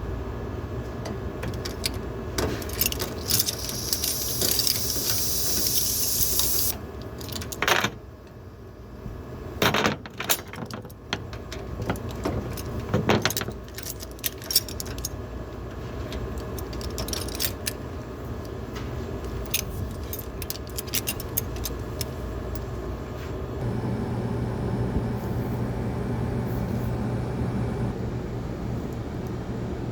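Air-conditioner refrigerant gas hissing out for about three seconds, a few seconds in, over a steady low hum. Metal clinks and knocks of fittings and tools follow, and the hum grows deeper and louder near the end.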